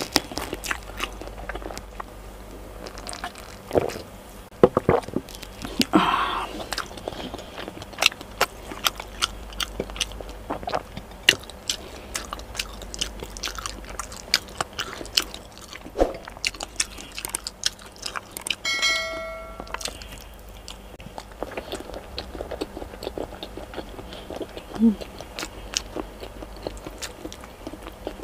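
Close-miked eating sounds: chewing, with many sharp wet mouth clicks and lip smacks, as saucy chicken adobo and rice are eaten by hand. About two-thirds of the way in, a brief ringing tone sounds for about a second.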